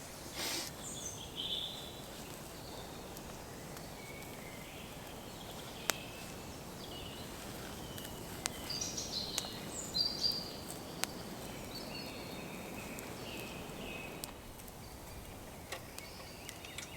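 Several birds singing in short chirps and trills over a faint steady hiss, with a few sharp pops scattered through, typical of a wood fire crackling.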